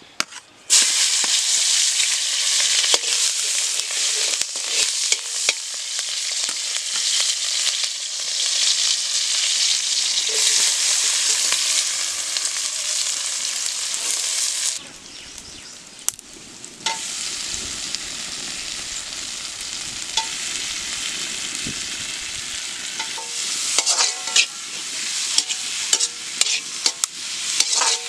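Chopped onions hitting hot oil in a black iron wok: a loud sizzle starts suddenly about a second in and goes on as a metal spatula stirs them. About halfway the sizzle drops to a quieter frying hiss, with sharp scrapes and clicks of the spatula on the pan near the end as the tomatoes cook.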